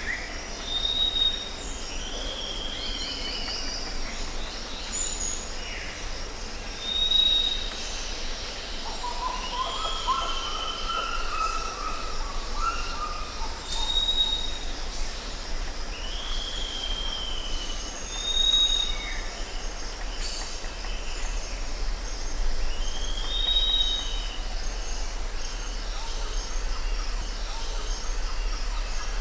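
Jungle ambience: several birds call over a steady high insect drone. Short high whistles and a falling, slurred call repeat every few seconds, and a lower warbling phrase comes about a third of the way in.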